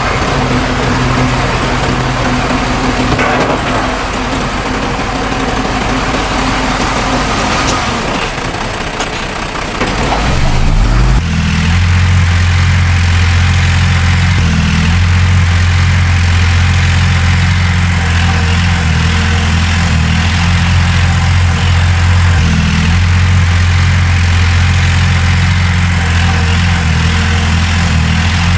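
Heavy diesel engines of earthmoving machinery running steadily. About ten seconds in the pitch rises briefly, then gives way to a louder, deeper steady engine drone.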